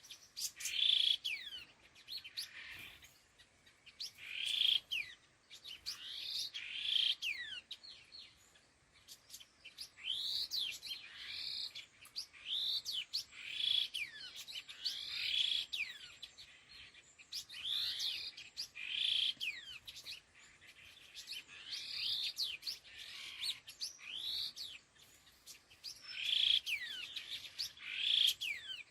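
Khướu lùn, a small babbler, giving flock calls: repeated phrases of quick chirps and sweeping whistles, each a second or so long, with short pauses between them.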